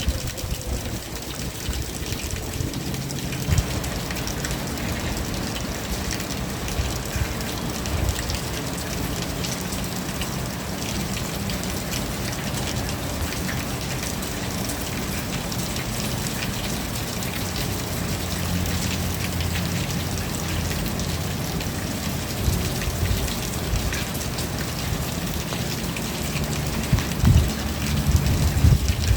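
Steady rain falling, a dense even hiss of drops, with a low rumble underneath that grows louder and more uneven near the end.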